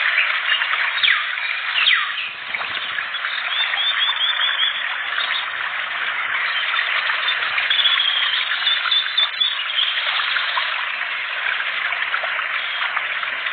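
Songbirds chattering densely and without pause: rapid chirps mixed with short rising and falling whistles. This is the 'ngriwek' chatter that a masteran bird-song track is meant to draw out of caged birds.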